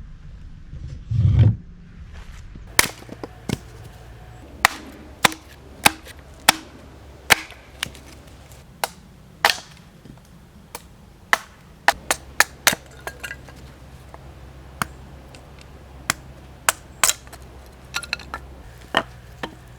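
Firewood being chopped and split for a campfire: a run of about twenty sharp, irregularly spaced knocks, with a heavier low thud about a second in.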